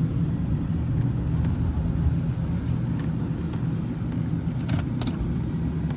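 Ford Thunderbird's 4.6-litre V8 running with a steady low rumble, and a couple of short clicks a little under five seconds in.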